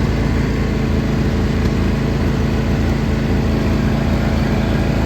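John Deere LA145 riding mower's engine running at a steady speed as the tractor is driven along.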